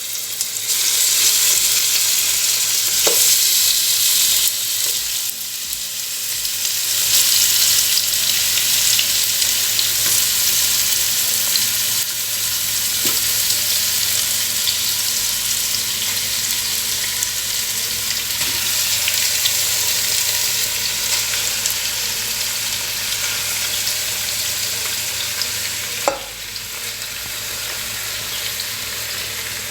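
Masala-marinated chicken pieces sizzling loudly in hot coconut oil in a pan. The sizzle swells twice in the first several seconds, with a sharp knock about three seconds in and another near the end.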